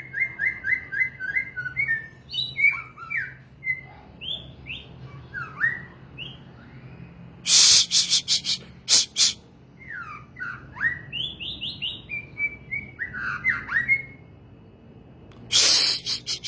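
A songbird singing a varied run of quick whistled notes, slurs and trills, broken by loud harsh rasping calls in the middle and again near the end.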